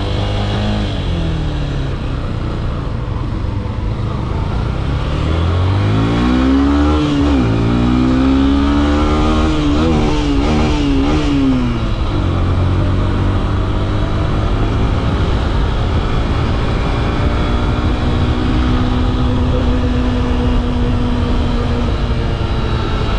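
Yamaha FZ S V3's 150cc single-cylinder engine heard on the move under throttle, with constant road and wind noise. The engine pitch climbs from about five seconds in, drops briefly near seven seconds, then rises and wavers again. From about twelve seconds in it holds a steady pitch at cruising speed.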